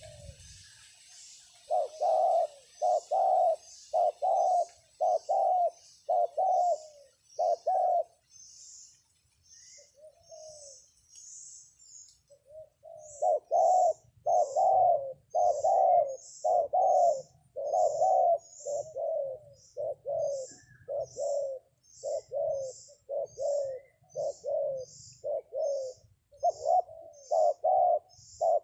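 Spotted dove (terkukur) decoy cooing, short low coos repeated evenly in long runs with a brief pause after the first run. Faint high-pitched chirps repeat steadily behind them.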